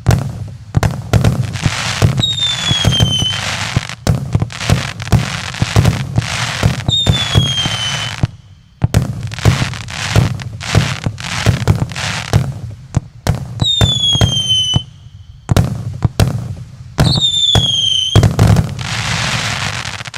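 A 100-shot JF MC25 consumer fireworks cake firing in rapid succession: many sharp launch and burst bangs with crackling between them. Four whistling shells glide down in pitch, about 2, 7, 13 and 17 seconds in.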